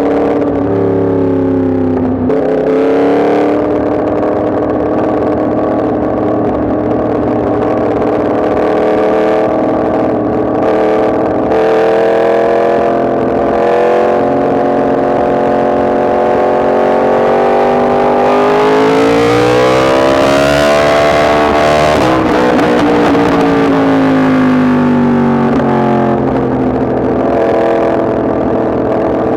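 Yamaha MT-10 SP's crossplane inline-four engine running while being ridden, holding steady revs for much of the time. About two-thirds of the way in the revs climb under acceleration, then drop back as it slows.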